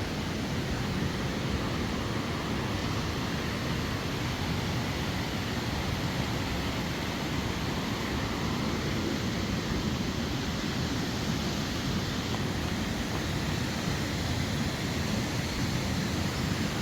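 Waterfall: water pouring steadily into a pool, a constant even rush with most of its weight in the low end.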